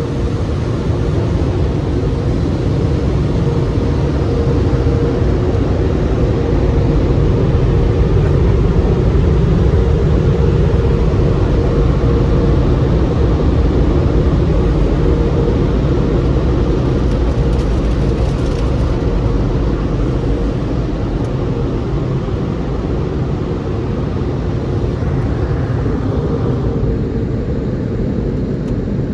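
Tunnel car wash machinery running: a loud, steady rumble and rush of noise with a constant hum through it.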